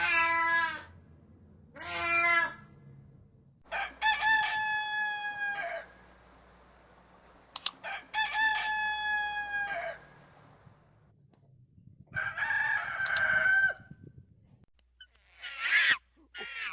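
Two short cat meows at the start, then a rooster crowing twice, each crow about two seconds long. A rougher fowl call follows about twelve seconds in, and a short call near the end.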